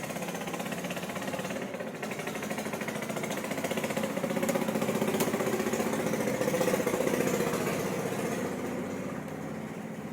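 Imarflex electric fan running, its blades chopping the air into a fast, even flutter with a motor hum; it grows louder to a peak about two-thirds of the way through, then fades.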